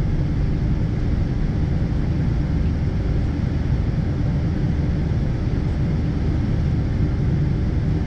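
Steady low rumble inside the cabin of a Boeing 777-200ER in motion: its Rolls-Royce Trent engines and rushing air, heard from a window seat, even in level with no changes.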